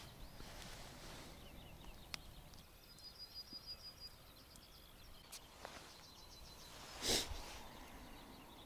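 Faint outdoor birdsong of high, short chirps and a thin whistle, with a short rush of noise about seven seconds in.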